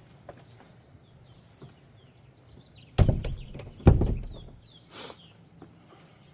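Faint scattered chirping of small birds, broken by two heavy thumps about a second apart near the middle and a short rustle soon after.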